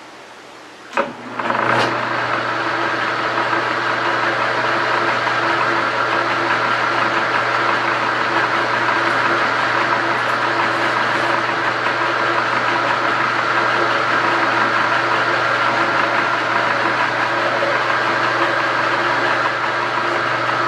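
Metal lathe switched on with a click about a second in, then its motor and drive running steadily with a hum and a whine.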